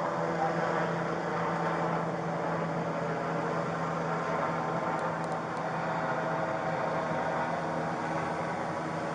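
A car running steadily: an even engine-and-road drone with a constant low hum.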